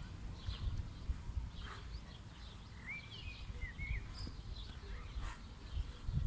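Soft, scattered high bird chirps, with a quick run of them about three to four seconds in, over a steady low rumble.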